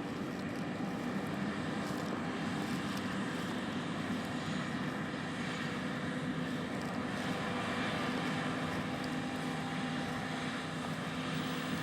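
Big John Deere four-wheel-drive tractor's diesel engine running steadily, a constant drone.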